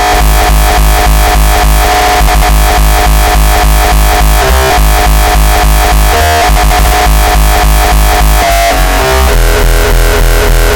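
Loud uptempo hardcore electronic music: a fast, driving kick-drum beat under heavy distorted bass and synths, with a short break about six seconds in and a change in the synth pattern about nine seconds in.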